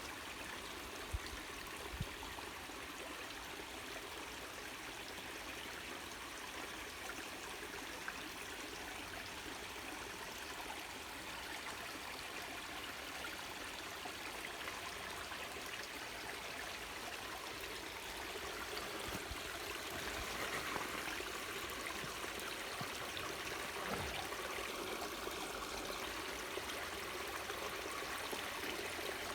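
Waterfall water rushing and splashing in a steady, even stream, growing slightly louder about two-thirds of the way through. A couple of brief low thumps sound in the first two seconds.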